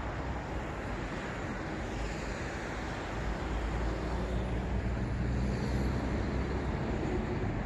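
City road traffic: a steady rumble of car engines and tyre noise that swells as a vehicle passes, about halfway through.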